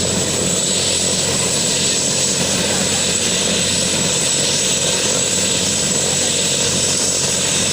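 Helicopter engine and rotor running steadily, with a steady high-pitched whine over the rotor noise.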